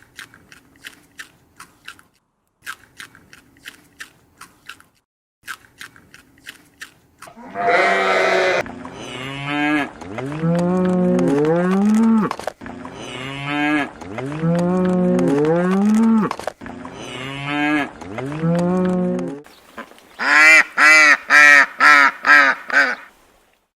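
A series of faint clicks, then a large farm animal calling loudly over and over in long calls that glide up and down in pitch. Near the end it gives a quick run of about seven short calls.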